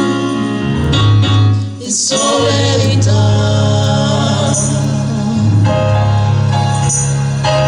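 Gospel music: a choir singing long, held notes over a bass-heavy band accompaniment, with a brief drop in level about two seconds in.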